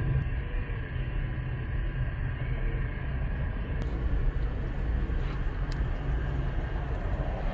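A car running, with a steady low rumble throughout.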